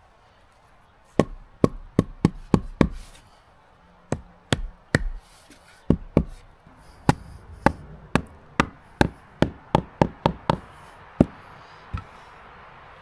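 Repeated sharp knocks of a tool striking wood: a quick run of about six strikes, a few scattered ones, then a longer steady run at two to three strikes a second that tails off near the end.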